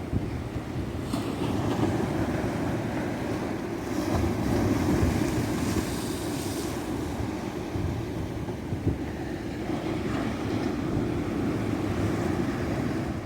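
Ocean waves breaking and washing up a beach: a steady surf rumble that swells into a brighter hiss about a second in and again from about four to seven seconds, with some wind on the microphone.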